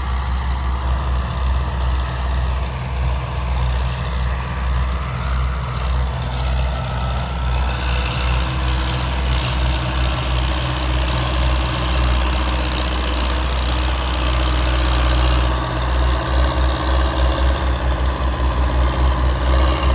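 Belarus 520 tractor's diesel engine running with a deep, steady low rumble. In the last few seconds the engine note becomes uneven and pulsing, as if under changing load.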